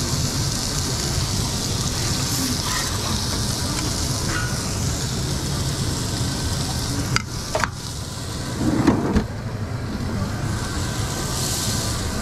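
Omelette frying on a hot griddle: a steady sizzle over a low, even rumble. The sizzle breaks off briefly about seven seconds in, there is a clatter around nine seconds, and the sizzle swells again near the end.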